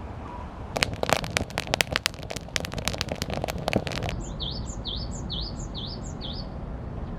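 A dense run of sharp, irregular cracks for about three seconds, stopping abruptly. Then a bird calls a quick repeated chirping note about six times in a row.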